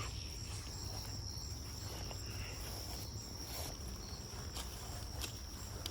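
Outdoor insect chorus: a steady high-pitched chirring drone, with a few faint ticks and rustles.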